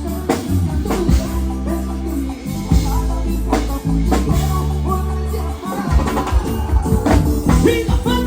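A band playing live: long held bass notes under regular drum hits, with a bending melodic line, singing or a lead instrument, coming in near the end.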